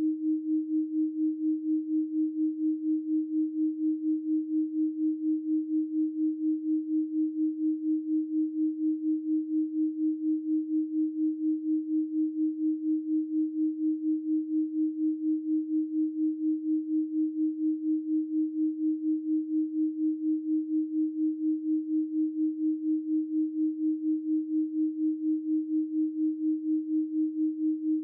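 Steady 312 Hz pure sine tone, held at one pitch, with an even pulsing in loudness a few times a second.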